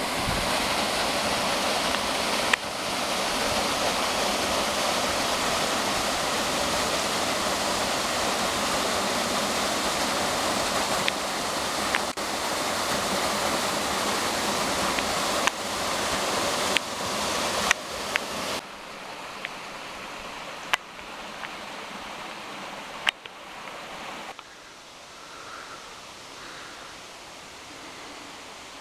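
Waterfall: a steady, dense rush of falling water that drops abruptly to a quieter rush about two-thirds of the way through, with a few sharp clicks.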